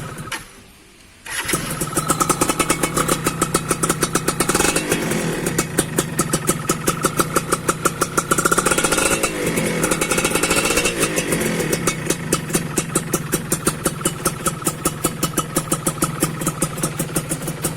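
Yamaha F1ZR two-stroke single-cylinder engine with an AHM aftermarket exhaust. It fires briefly and dies, then catches about a second in. It runs with a rhythmic, pulsing exhaust note and a few blips of the throttle.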